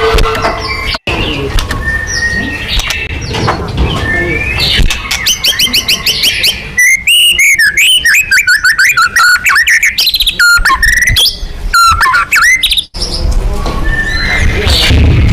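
White-rumped shama (murai batu) singing a loud, fast, varied song of whistles, rapid repeated notes and trills, broken by abrupt cuts between spliced phrases. A low rumble sits under the song near the end.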